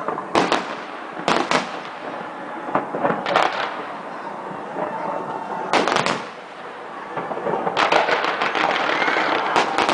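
Fireworks display going off: a few separate bangs a second or two apart, then a fast run of crackling bangs from about eight seconds in.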